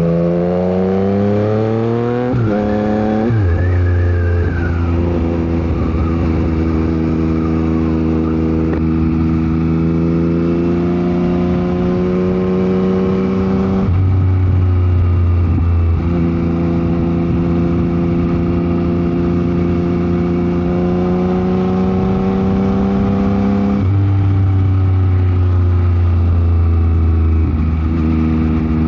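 Yamaha MT-09 SP's inline-three engine through a Dominator GP aftermarket exhaust, revving up and changing up through the gears in quick succession about two and three seconds in, then pulling at steady, slowly climbing revs with a few more gear changes. Wind noise buffets the microphone.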